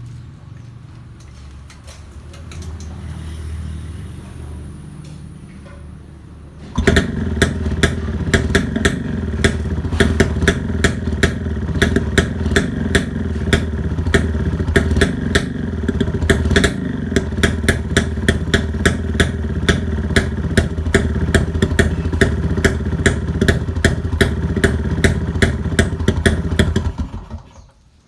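Kawasaki HD3 two-stroke motorcycle engine, running a Brutus 140 conversion, heard through its cleaned and re-welded stock silencer. It runs at a lower level at first, then gets suddenly much louder about seven seconds in, with sharp pops all through, and cuts off near the end.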